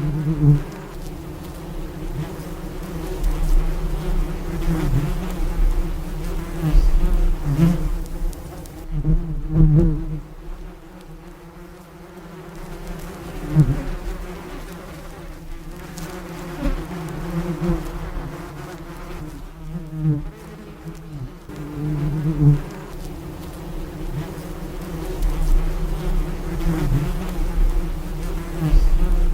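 A bee buzzing in flight: a low hum that wavers in pitch and swells and fades many times, dipping quieter for a few seconds around the middle.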